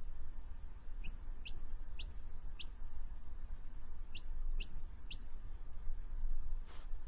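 Small bird chirping: short rising chirps in two runs of about four, over a steady low rumble.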